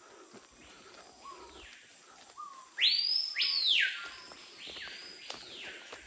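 A bird calling in rainforest: about five loud, harsh arched calls in quick succession, each rising, holding high and then dropping. They are loudest about three seconds in and fade over the last couple of seconds. Faint footsteps on dry leaf litter run beneath.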